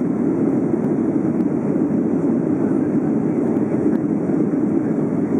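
Steady, even rush of a Boeing 757-200's jet engines and airflow, heard as cabin noise from on board.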